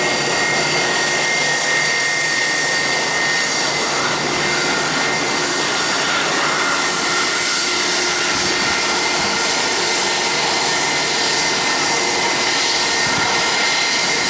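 Jet airliner engines running loud and steady, an even roar with a thin high whine over it.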